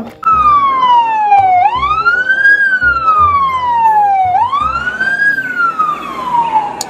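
Wailing siren for the fire truck: one tone slides slowly down, sweeps quickly back up and slides down again, twice over, then fades near the end.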